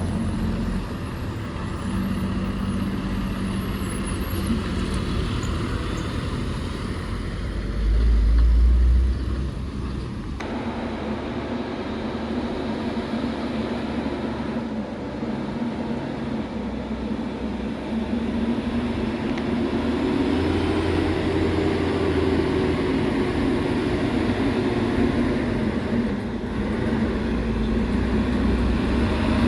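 Heavy truck engines running under load on a steep hill, with a deep low rumble swelling about eight seconds in. The sound changes abruptly about ten seconds in, and later an engine note rises and falls.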